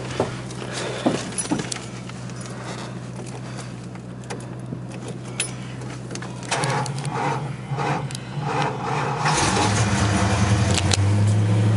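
Keys jangling at the ignition, then the 1968 Dodge Coronet's rebuilt 440 V8 is cranked by its starter, turning over slowly with a battery that is a little low, and fires about nine seconds in, settling into a loud, steady idle.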